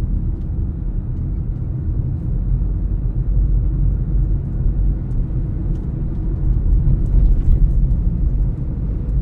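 Steady low rumble of a car being driven, heard from inside the cabin: engine and road noise, with a few faint small ticks.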